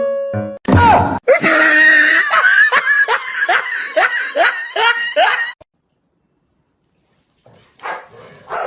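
A person laughing loudly and shrilly in a rapid string of falling "ha" bursts, a little over two a second, after a loud thump about a second in.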